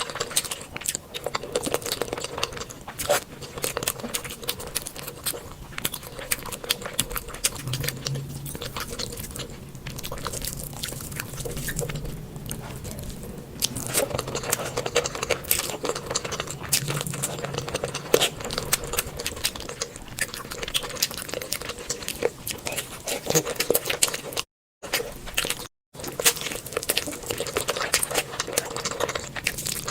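Close-miked eating: dense wet chewing, smacking and crunching of mouthfuls of food, many small sharp clicks in quick succession. The sound cuts out completely twice, briefly, a little before the end.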